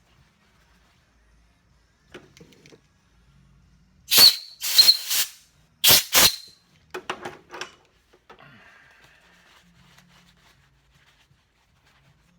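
Aerosol cleaner sprayed in short hissing bursts, four in all over about two seconds, with a thin whistle in the hiss, followed by a few light clicks of handling.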